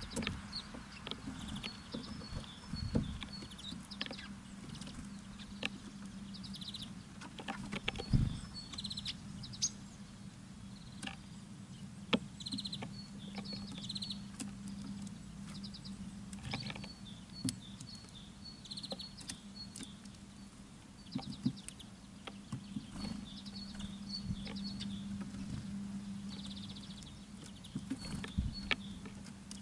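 Small birds at a feeder: frequent sharp taps and clicks from pecking and landing, with runs of short, high chirping calls. A steady low hum runs underneath.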